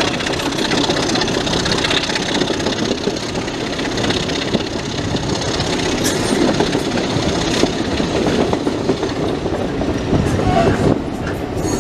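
Train running on the rails: a steady, loud rumble with wheel clatter over the rail joints.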